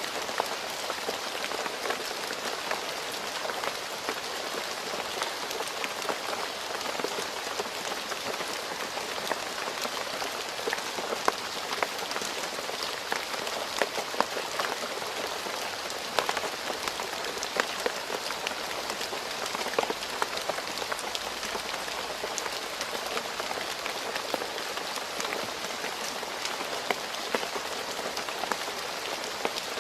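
Steady rain falling on a road surface, a constant hiss with many individual drops ticking and splashing sharply.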